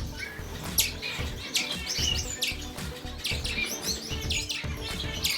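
Small parakeets chirping: short high chirps in quick clusters throughout, over quiet background music.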